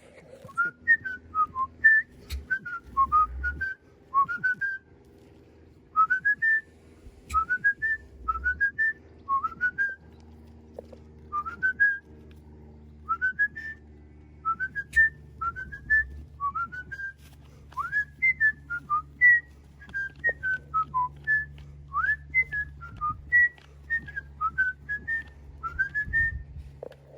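Whistling: a long run of short, clear notes that glide up and down in small repeated phrases, with brief pauses between them.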